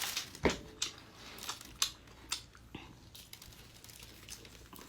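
Close-miked eating sounds, a mukbang eater chewing octopus: a string of short mouth clicks and smacks, several in the first few seconds, then quieter.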